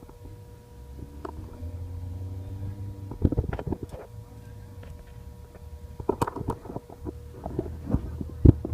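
Scattered clicks and knocks of hand work with tools and metal parts, in clusters about three seconds in, about six seconds in, and once near the end, over a low steady rumble and a faint hum.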